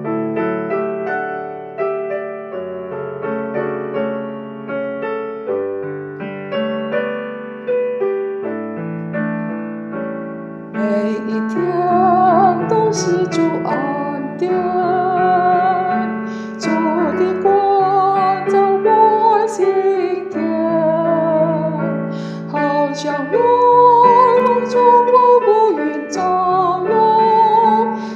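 Piano introduction to a Chinese hymn, alone for about the first eleven seconds; then choir voices come in singing the melody over the piano accompaniment.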